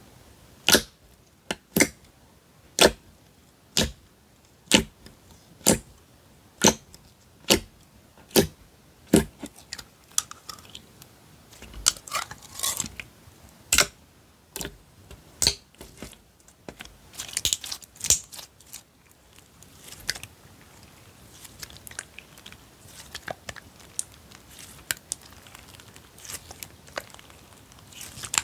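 Slime being handled and pressed: about ten sharp pops roughly once a second, then irregular crackling and squishing that fades toward the end.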